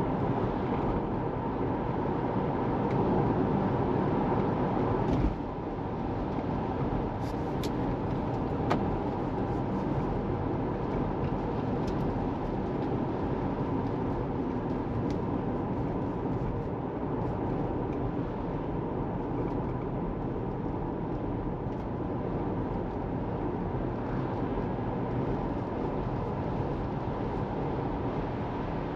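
Steady road and tyre noise from a moving Tesla Model 3, an electric car with no engine sound. It drops a little in loudness about five seconds in.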